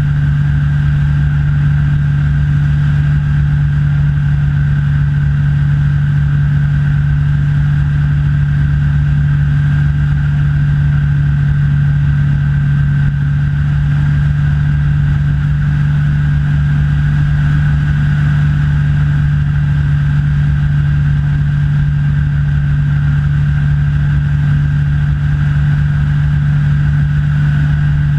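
Rans S6 light aircraft's engine and propeller droning steadily in flight, a deep hum that holds one pitch throughout, with a fainter steady high tone above it.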